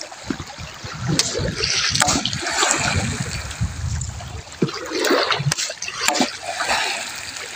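Shallow sea water splashing and sloshing irregularly as a person wades through it knee-deep, with a few sharper splashes.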